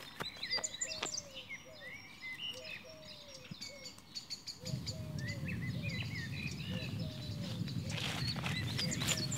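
Small birds chirping and calling in quick, scattered short notes. About halfway through, a low, even rushing noise comes in and grows slightly louder.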